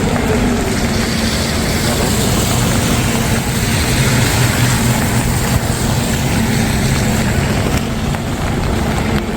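A vehicle engine running steadily at close range, over a continuous hiss of rain on a wet street.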